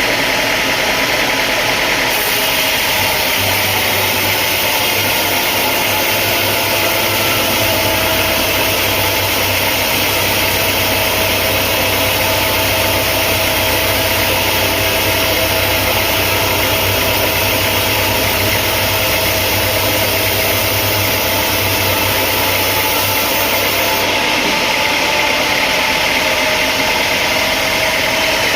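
Sawmill machinery running steadily with an engine-like drone. A deeper hum and a high hiss join about two seconds in and drop away near the end.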